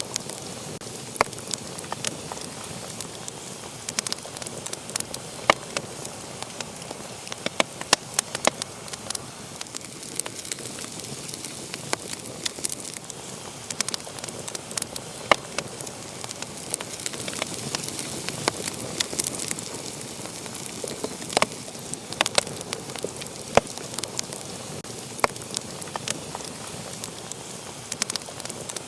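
Wood fire burning in a fireplace: a steady hiss of flames with frequent sharp, irregular crackles and pops.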